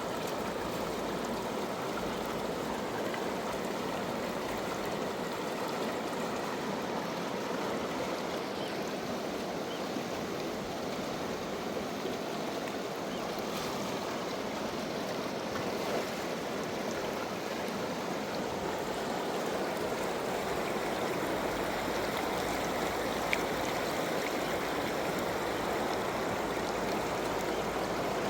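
River water flowing steadily: a continuous, even rush of moving water.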